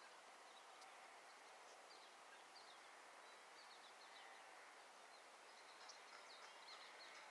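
Faint birdsong: scattered short, high chirps and quick slurred notes over a soft steady hiss, coming more often near the end.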